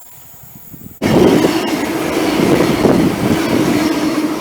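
Great Western Railway Class 802 train passing close by, starting suddenly about a second in: a loud rumble of wheels on rail with a steady running tone.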